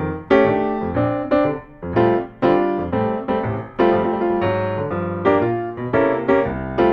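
Background jazz music: a piano playing a run of chords, each struck and left to ring.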